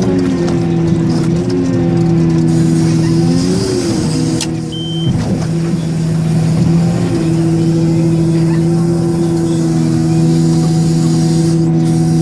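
Caterpillar 990H wheel loader's large diesel engine running hard and steadily while it loads a haul truck. About three and a half seconds in, the pitch briefly wavers. A moment later it eases off, and a short high beep sounds before the engine settles back to steady running.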